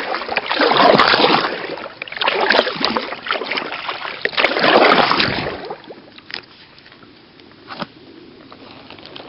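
Kayak paddle strokes splashing and water sloshing, in a few loud surges; after about five and a half seconds they fade to a quiet wash with a couple of light knocks.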